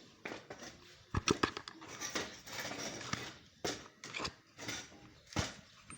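Irregular scraping strokes and sharp metallic clicks of a hand tool working the bolt hole of a washing-machine part, enlarging it so the bolt will fit.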